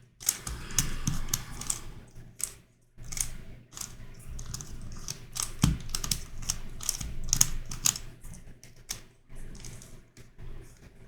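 Plastic puzzle cube being turned by hand: quick, irregular clicks and clacks of its pieces rotating and snapping into place.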